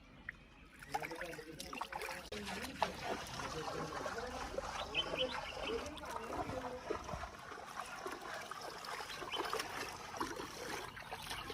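Water trickling and splashing, with scattered short knocks and clicks, under faint, indistinct voices.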